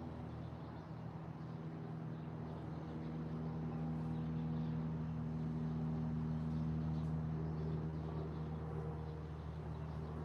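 A steady low engine drone, swelling a little in the middle and easing off toward the end, with a few faint high ticks.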